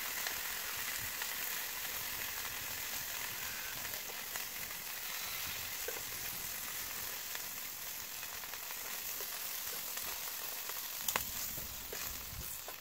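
Chicken wings sizzling steadily in hot oil in a frying pan, with a couple of sharp clicks of the metal tongs against the pan a little before the end as the pieces are lifted out.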